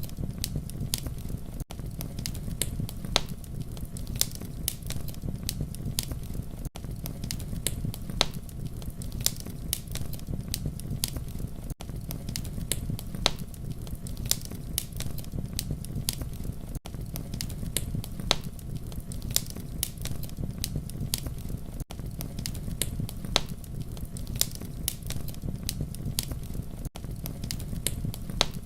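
Campfire crackling: a steady low rumble of flames with frequent sharp pops and snaps. A brief dip in level about every five seconds shows a short recording looped over and over.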